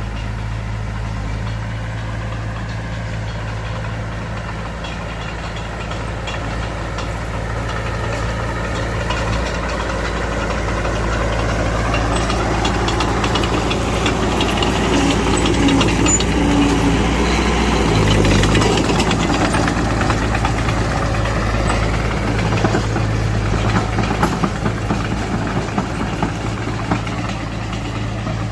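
Mitsubishi BD2F crawler bulldozer's diesel engine running steadily, with track clatter and squealing growing louder through the middle as the machine works, then easing off near the end.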